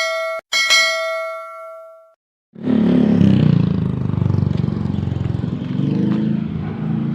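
Two ringing chime-like dings, each dying away over a second or so, then about two and a half seconds in a motorbike engine comes in loud and runs steadily with a low, even pulse.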